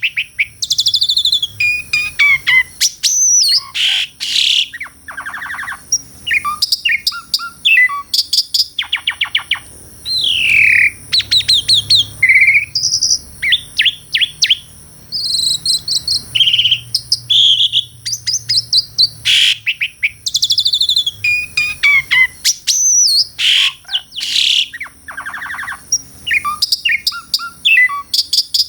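Asian pied starling (jalak suren) singing a long, varied song of falling whistled slurs, rapid trills and harsh chattering notes, with short pauses between phrases.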